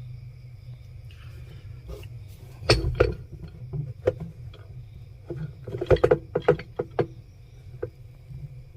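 Metal clinks and knocks from a socket tool working the washing machine pulsator's mechanism nut loose, a loud pair about three seconds in and a quick run of clicks around six to seven seconds, over a steady low hum.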